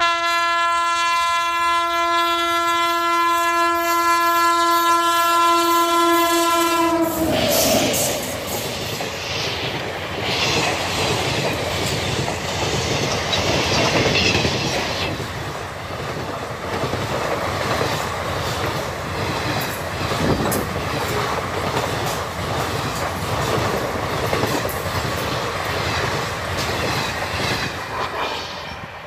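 An Indian Railways electric locomotive sounds its horn in one long steady blast for about seven seconds, then the express train rushes past at speed: a loud rolling rumble with a fast clickety-clack of wheels over rail joints as the coaches go by. The noise drops away near the end.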